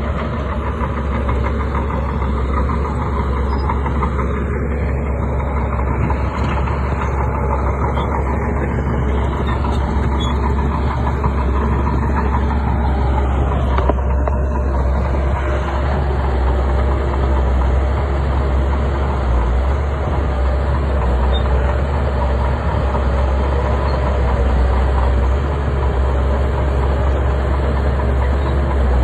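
A bulldozer's heavy diesel engine running steadily, its sound weighted deep and low.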